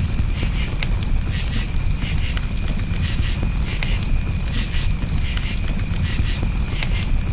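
Campfire crackling, with sharp pops over a low rumble, and crickets chirping in regular pulsed trills.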